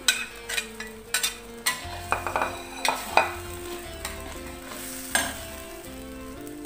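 Metal spatula scraping and clanking irregularly against a wok, stirring shrimp and bird's eye chillies into ground spice paste, which sizzles as it fries in oil.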